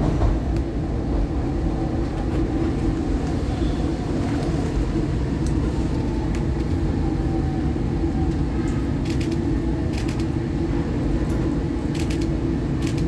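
SEPTA Market-Frankford Line Adtranz M4 train running along elevated track, heard from inside the front car: a steady low rumble of wheels and motors, with a few sharp clicks near the end.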